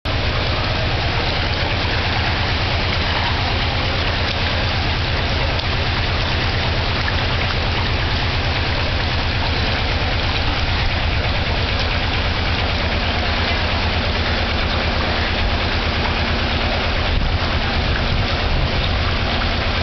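Heavy rain and floodwater running down a street: a loud, steady rushing hiss, with a steady low, fast-pulsing rumble underneath.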